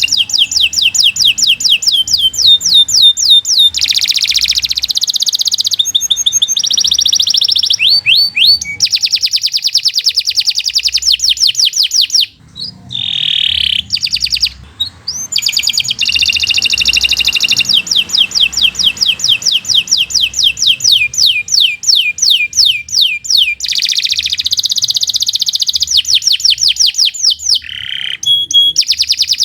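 Domestic canary singing a long, fast song: runs of rapid trills, each a string of quick, identical sweeping notes, changing from one trill type to the next. There is a brief break about halfway through before the trills start again.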